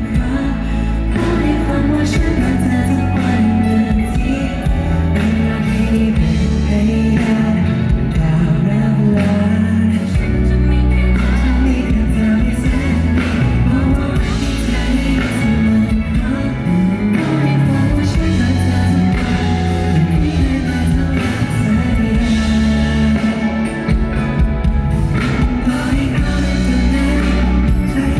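Thai pop song performed live: a male singer over band backing with a strong bass line.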